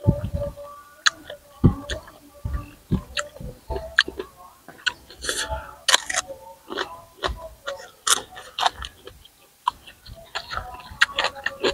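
Close-miked chewing and crunching of raw shrimp and crisp raw vegetables: irregular sharp crunches and clicks several times a second.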